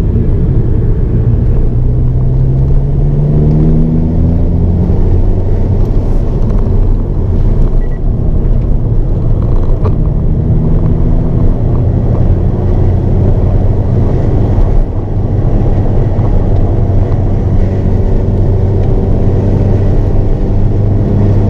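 Hyundai Avante N's turbocharged 2.0-litre four-cylinder engine heard from inside the cabin on a race circuit, pulling hard out of a corner with its pitch climbing, then rising again several times as the car accelerates between corners, over a steady rumble of tyre and road noise.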